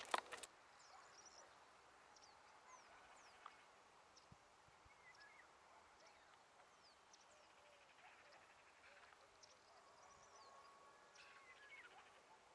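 Faint, scattered chirps and short whistles of songbirds over near silence, with a quick rattling trill near the end. A brief knock sounds right at the start.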